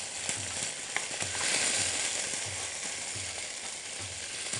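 Raw bone-in chicken pieces sizzling in hot oil with whole spices: a steady frying hiss that grows louder partway through, with a few sharp pops about a second in as the spices spatter.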